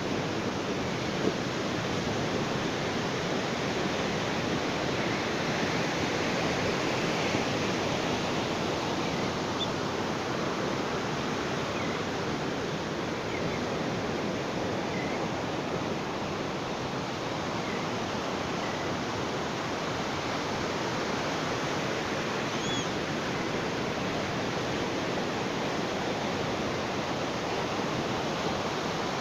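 Ocean surf washing on a beach in a steady, dense hiss with no distinct wave breaks, and a few faint short chirps over it.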